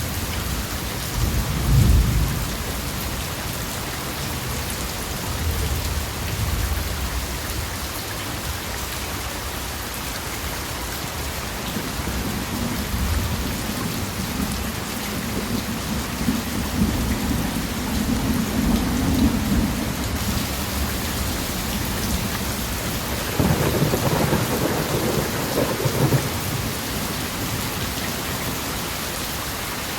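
Steady rain falling, an even hiss throughout, with low rolling thunder: a short rumble about two seconds in, a longer rolling stretch in the middle, and the loudest rumble a few seconds before the end.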